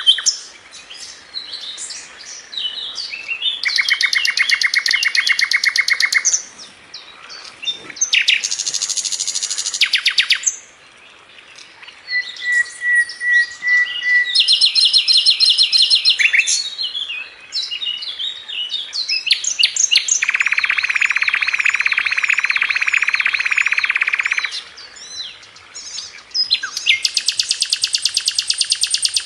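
Sikatan londo flycatcher singing: fast, tight trills of rapidly repeated high notes, each run lasting a few seconds, broken by short chirps and brief pauses.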